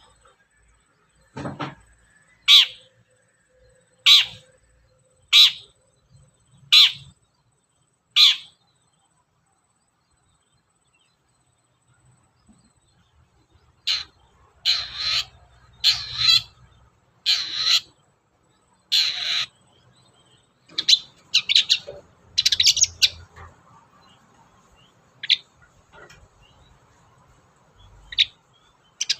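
Long-tailed shrike (cendet) calling: a series of short, harsh notes about a second apart, a pause of several seconds, then another series, then a quicker run of varied chattering notes.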